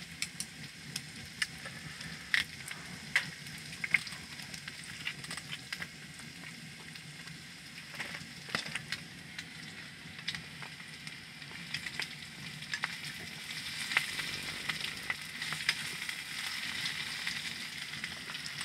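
Kimchi stir-frying in pork belly fat in a pan, sizzling steadily, with scattered clicks and scrapes of a utensil stirring it.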